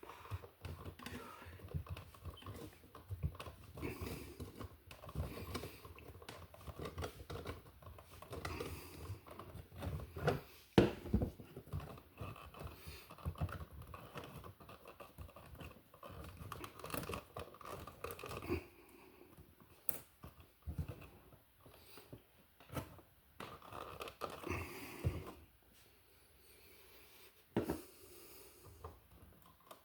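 Irregular small clicks, scrapes and rustles of hands working solid copper wiring in an outlet box, twisting a wire nut onto the wires, with a sharper knock about eleven seconds in. It goes quieter near the end.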